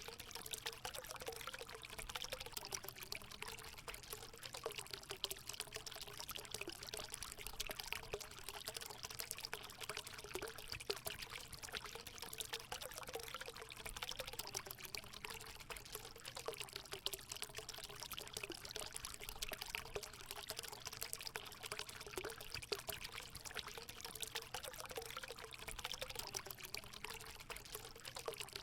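Hot spring water pouring and trickling steadily into a pool, a continuous splashing flow with a constant burble of small gurgles.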